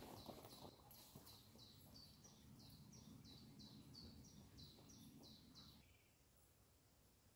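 A songbird giving a fast, even series of short high chirps, about three a second, that stops about six seconds in. Faint footfalls of a runner on the dirt trail fade out in the first second.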